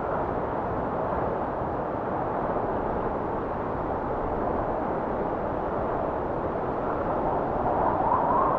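Blizzard wind blowing steadily in a dense low rushing noise. Near the end a gust swells and brings up a faint whistle.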